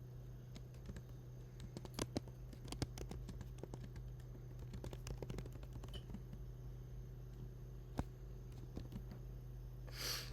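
Irregular clicks of typing on a computer keyboard, with a few sharper taps about two seconds in and one near eight seconds, over a steady low electrical hum. A short hiss near the end.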